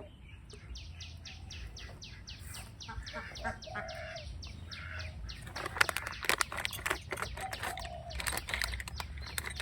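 Small bird chirping a fast, even series of short chips, about four a second, which then turn into a denser, irregular run of sharper chips.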